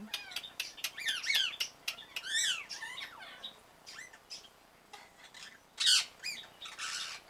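Parrots calling: a quick run of sharp clicks and short rising and falling chirps, then two harsh squawks about six and seven seconds in.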